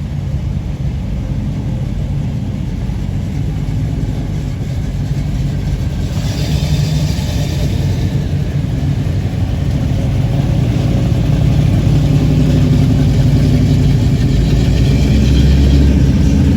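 Street rod car engine running with a low, steady rumble that grows gradually louder.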